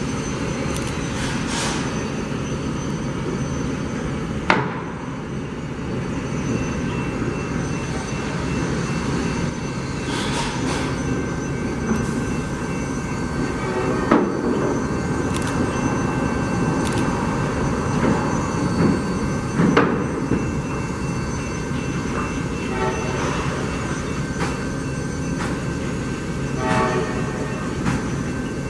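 Amtrak California passenger train running past: a steady rumble of locomotive and cars on the rails, with a few sharp clacks of wheels over rail joints.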